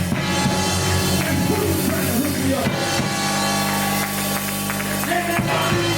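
Live band music with a drum kit, a steady bass line and sustained keyboard-like chords, with a melodic line moving over them.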